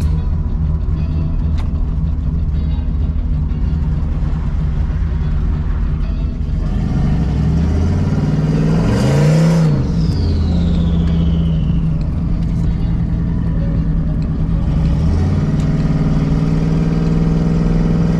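Turbocharged V8 pickup engine heard from inside the cab while driving: about seven seconds in it revs up hard, with a loud rush of air at the top, then a falling turbo whistle as the throttle lifts, and it settles back to cruising, changing pitch again around fifteen seconds in.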